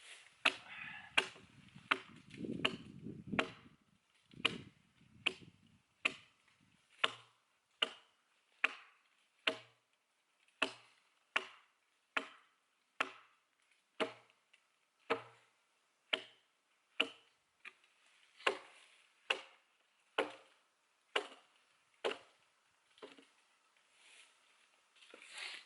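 An axe chopping into an oak log, cutting a notch along the log to guide a split, with a steady stroke a little more than once a second throughout.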